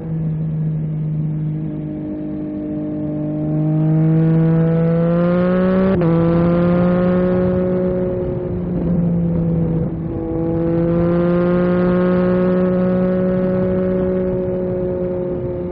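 Yamaha MT-09 SP's three-cylinder engine through an Akrapovic carbon racing exhaust, pulling hard with rising pitch, then a quick gear change about six seconds in. It dips briefly near ten seconds, then pulls and holds a steady note at cruising speed.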